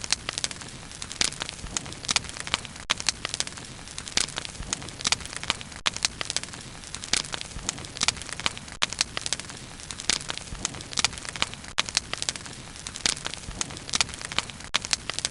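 Wood bonfire burning, with many irregular sharp crackles and pops over a steady low hiss of the flames.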